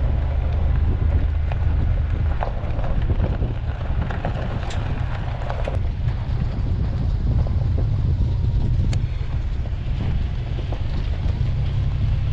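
Low, steady rumble of a van driving slowly, with wind buffeting the microphone and a few faint clicks.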